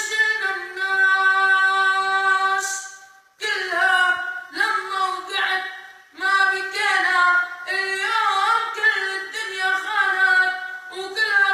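A solo high-pitched voice singing an Arabic song unaccompanied. It holds long notes decorated with melismatic turns and bends, with brief pauses for breath about three and a half and six seconds in.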